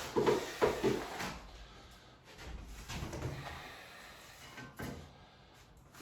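A length of wallpaper being handled and rolled back on itself: a few short bursts of paper rustling and scraping in the first second or so, softer rustling a little later and a small click near the end.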